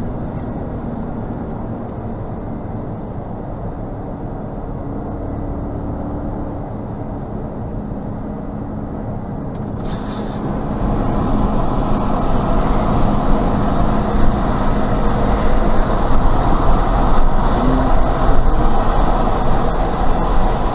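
V8 car engine and road noise at a steady cruise, then about halfway through growing clearly louder and staying loud as the car accelerates hard in a roll race.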